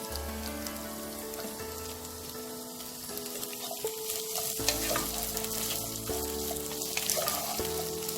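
Sliced onion, carrot and capsicum sizzling in sesame oil in a pan as they are stirred and sautéed, with scattered clicks from the stirring. Background music plays under it.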